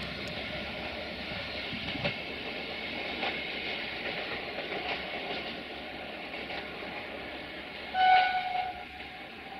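Passenger train rolling away, its rumble and the clicks of wheels over rail joints slowly fading. About eight seconds in, the distant locomotive sounds its horn once, a short loud blast.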